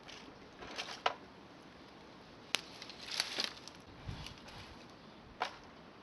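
A few scattered sharp clicks and light knocks, with a soft low thump about four seconds in, over a faint steady background.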